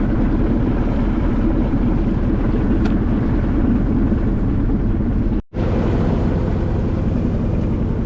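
A sailboat's engine motoring steadily under way, a constant low drone. It cuts out for a split second about five and a half seconds in, then carries on.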